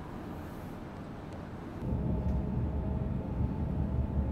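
Cabin noise of an E5 series Shinkansen: a steady hum, then about two seconds in a louder, heavy low rumble as the train runs at high speed.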